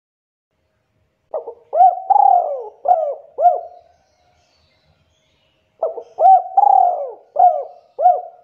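Spotted dove (tekukur) cooing: two phrases of about five rising-and-falling coo notes each, a couple of seconds apart.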